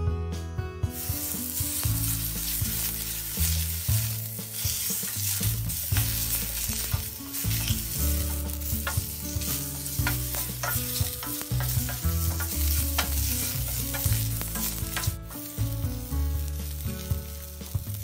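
Food sizzling in a hot metal frying pan, stirred and scraped around with a wooden spoon; the sizzle starts about a second in. Under it runs a steady low bass line that steps from note to note.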